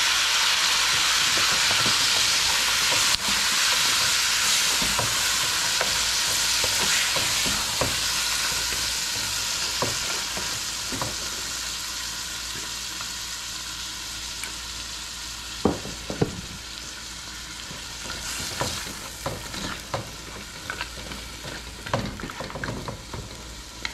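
Browned pork ribs frying in hot fat with tomato and serrano chile salsa just poured in: a loud sizzle that slowly dies down as the salsa cools the pan. A utensil knocks and scrapes against the pan now and then as it is stirred, more often near the end.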